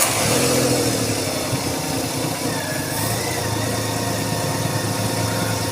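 Renault Kwid's three-cylinder petrol engine just after starting, its revs dropping over the first second and then settling to a steady idle. The idle holds even, now that the air leak at the intake manifold has been sealed.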